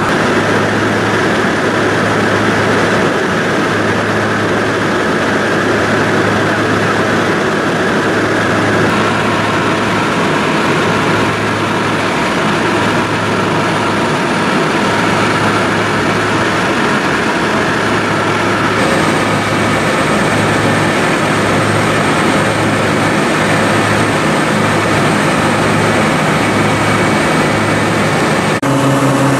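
Loud, steady engine and travel noise of a moving vehicle, with a low hum that comes and goes irregularly; the sound changes abruptly near the end.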